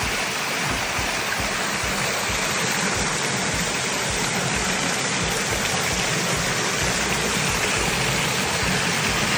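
Steady rush of running water in a koi pond, even and unbroken.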